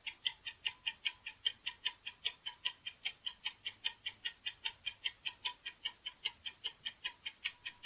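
Rapid, even clock-like ticking, about five or six ticks a second: a countdown-timer sound effect marking the time given to answer.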